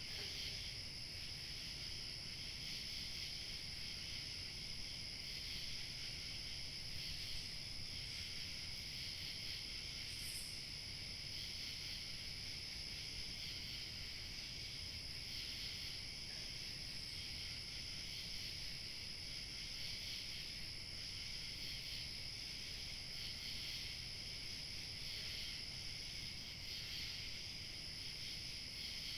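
Crickets chirping in a steady, continuous chorus, with a faint low hush of light wind beneath. One brief higher chirp comes about ten seconds in.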